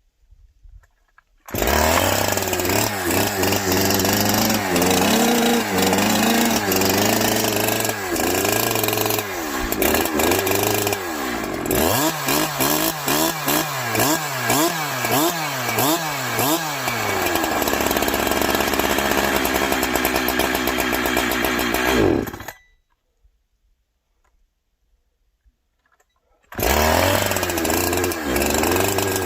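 Brand-new Farmertec Holzfforma G372XP two-stroke chainsaw starting up and running during its first start-up, revved up and down repeatedly with several quick blips in a row, then shut off about 22 seconds in. After a few seconds of quiet it starts again and runs near the end.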